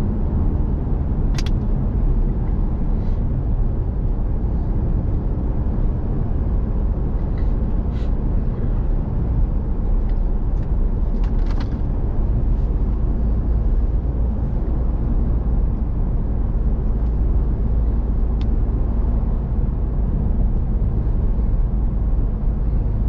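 Steady low road and engine rumble of a pickup truck driving, heard inside the cab. A few brief sharp ticks or rattles sound over it.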